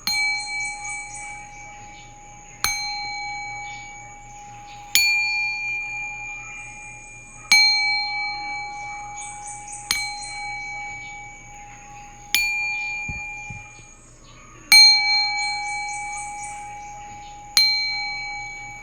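Singing bowl struck eight times, about every two and a half seconds. Each strike rings out in a clear, pure tone with high overtones that fades slowly before the next.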